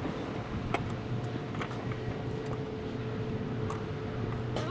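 A steady low mechanical hum with a faint steady tone over it, and a few light clicks scattered through.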